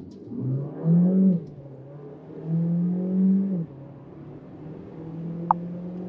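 Peugeot 3008 Hybrid4's 1.6-litre four-cylinder petrol engine and electric drive pulling hard from a standstill on a full-throttle launch, heard from inside the cabin. The engine note swells and drops back twice as the automatic gearbox shifts up, then holds steady. A brief sharp click comes near the end.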